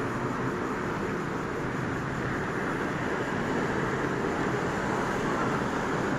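Steady outdoor background noise, an even rushing hum like distant road traffic, with no thunderclaps.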